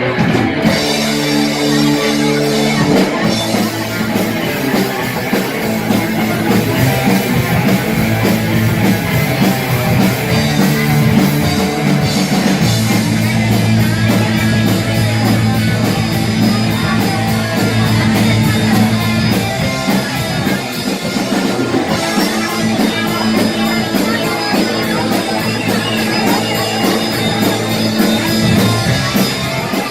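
Rock band playing an instrumental passage of a song, with electric guitar and drum kit, the chords changing about a third of the way in and again near two-thirds.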